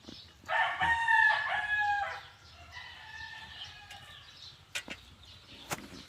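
Rooster crowing: one loud crow about half a second in, lasting under two seconds and dropping in pitch at its end, then a fainter crow. Two sharp clicks near the end.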